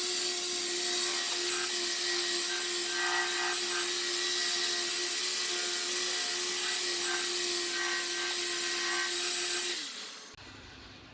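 Power sander running with fine 800-grit sandpaper against a car body panel: a steady motor hum under an even scratchy hiss. Near the end it is switched off and winds down, its pitch sliding lower as it stops.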